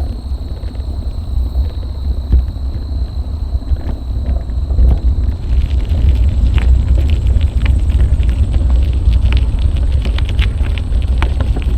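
Wind rumbling on an action camera's microphone during a bicycle ride, with a faint steady high whine. From about halfway through, a run of sharp clicks and rattles joins in.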